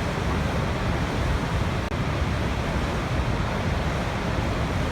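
Waterfall: a steady, unbroken rush of falling water, heaviest in the deep low end.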